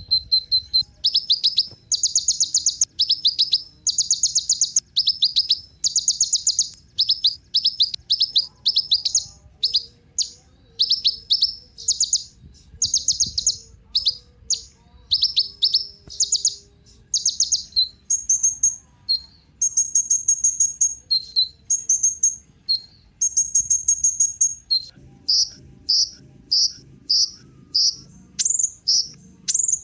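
Kolibri ninja sunbird singing: rapid runs of high, sharp chips and short trills, repeated in quick bursts with brief gaps.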